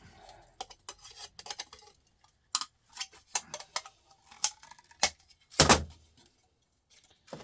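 Laptop parts and small hand tools being handled on a work surface during dismantling: a scatter of light clicks and clinks of metal and plastic pieces. About two thirds of the way through there is a heavier knock.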